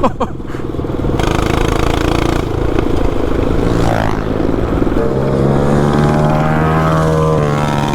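Small petrol engine running steadily, its note holding a constant pitch with a couple of brief pitch shifts.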